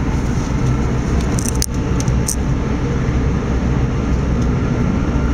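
Electrostar electric train heard from inside the carriage, running with a steady low rumble of wheels on rails. A few light clicks or rattles come through about one and a half to two seconds in.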